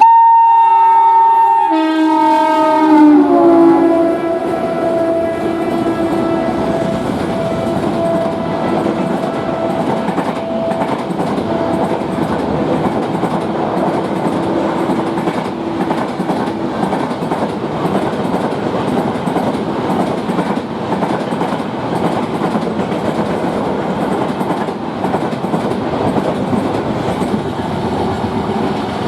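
Horn of twin WAG-7 electric locomotives sounding two tones as they pass at speed, the pitch dropping as they go by, then fading away. After that comes a steady rumble and clatter of the express train's coaches running through at moderate speed.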